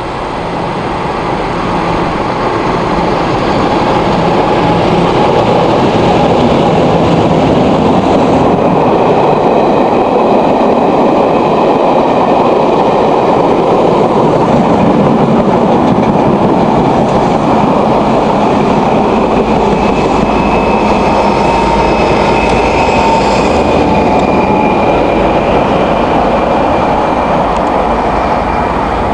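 Diesel-hauled train running on the rails, loud and continuous, building over the first few seconds and then holding steady, with faint whining tones over the rumble.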